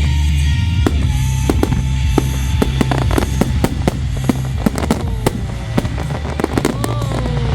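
A fireworks display: a rapid, irregular run of bangs and crackles from bursting shells over loud music with a heavy bass. Falling whistle tones come about a second in and again in the second half.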